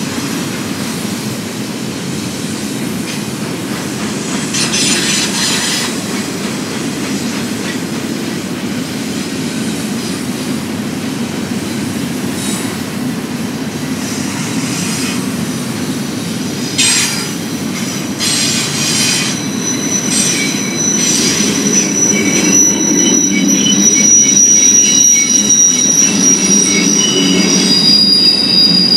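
Double-stack intermodal well cars rolling past on steel rails, a steady rumble of wheels on track. Bursts of high wheel screech come and go, and from about two-thirds of the way through a steady high-pitched flange squeal sets in and holds to the end.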